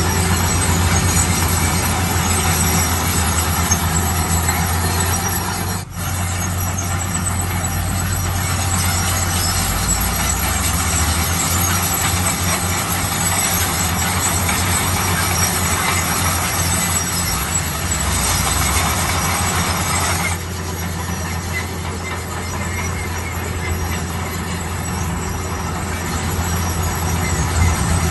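Heavy construction machinery working: a steady low engine drone under dense mechanical noise. The sound briefly drops out about six seconds in and changes abruptly near twenty seconds.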